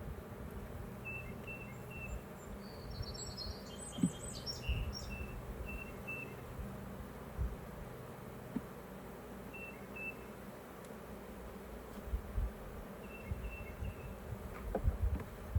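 Honeybees buzzing in a steady drone around an opened hive, with short high bird chirps on and off and a few soft knocks.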